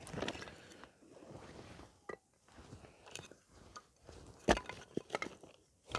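Pieces of cut firewood being handled and laid down to build a fire base, with irregular crunching, scraping and light wooden knocks; a sharper knock about four and a half seconds in.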